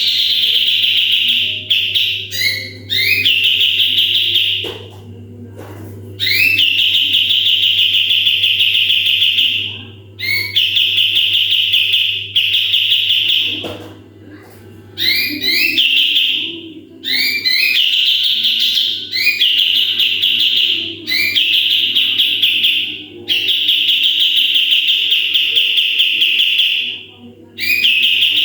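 Kapas tembak songbird singing its 'tembakan' bursts: each phrase opens with a few quick rising notes and runs into a long, rapid, high trill, repeated about a dozen times with short pauses. A steady low hum sits underneath.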